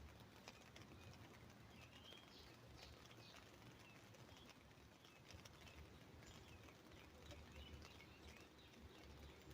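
Faint birdsong, many short chirps from several birds, over light patter of drops on an umbrella as the rain dies away.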